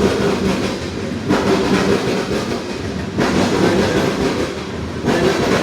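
CSX oil train's tank cars rolling past on the rails: a steady rumble and wheel clatter that swells and eases every couple of seconds. The cars run a lot quieter, which an onlooker takes for a sign that they are empty.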